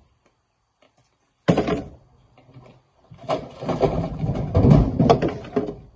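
Rocks thrown into a steel dump truck bed: one heavy crash about a second and a half in, then a clattering run of rock-on-metal impacts for the last three seconds.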